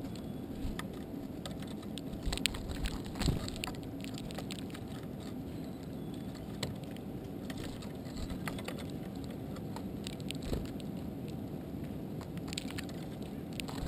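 Birds feeding close to an uncased GoPro: scattered light clicks and taps of pecking and hopping, over a steady low rumble.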